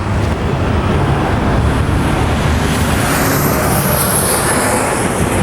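Steady traffic rumble, with a faint high whine that slowly falls in pitch in the second half.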